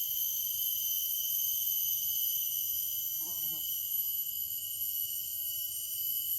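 A steady, high-pitched chorus of insects such as crickets, sounding at several pitches at once. A brief faint lower sound comes about three seconds in.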